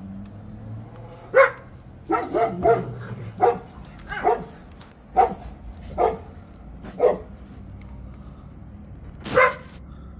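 A dog barking repeatedly: about ten short barks, with a quick run of three near the start, then single barks about a second apart and one last bark near the end.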